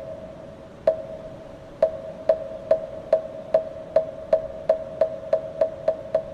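Moktak, the hollow wooden fish-shaped block of Korean Buddhist chanting, struck with a mallet. Each knock rings at the same pitch. The strokes begin about a second apart and quicken steadily into a fast run.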